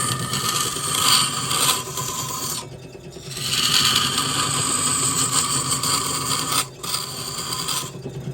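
Wood lathe running with a steady hum while a tool scrapes against the spinning wood in three passes, lifting off briefly between them.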